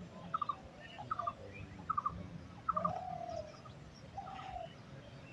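A bird calling over and over: a quick group of two or three short notes about once a second, with two longer, lower calls in the middle.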